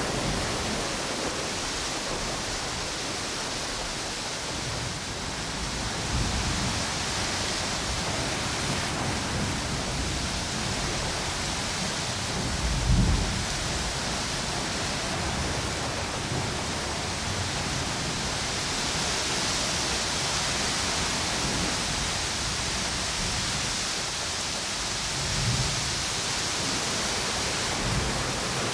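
Ocean surf and strong wind through palm trees, a steady rushing hiss. A few low gusty thumps break through, the loudest about halfway through and smaller ones near the end.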